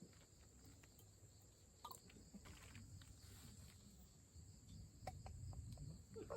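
Near silence: faint outdoor ambience with a steady high hiss and a few soft clicks.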